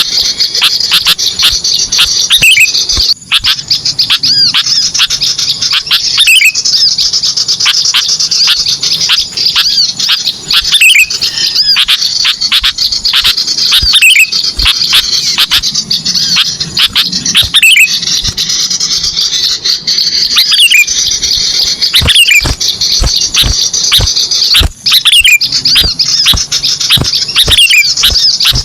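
Dense chorus of small-bird chirps and calls from a bird-lure (pikat) recording meant to draw small birds in. A falling call recurs every three to four seconds over the constant high chirping.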